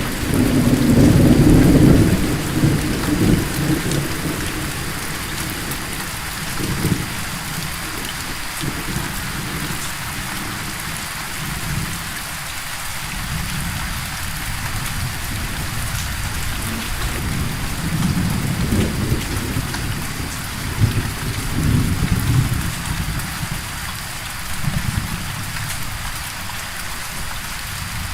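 Steady rain with rolling thunder: a loud rumble in the first few seconds, then quieter rumbles about two-thirds of the way through.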